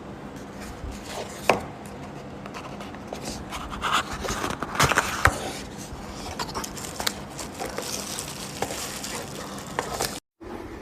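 Handling noises: an irregular run of sharp clicks, taps and scrapes, busiest around the middle.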